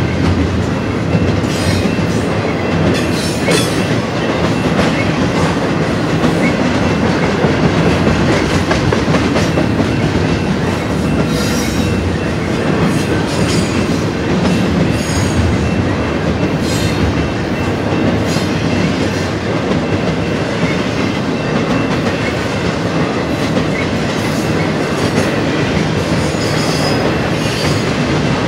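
BNSF double-stack intermodal freight train rolling past close by: a loud, steady rumble and clatter of steel wheels on the rails, with brief high-pitched wheel squeals now and then.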